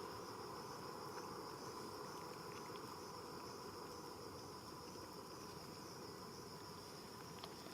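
Faint, steady insect chirring, with a constant high-pitched tone.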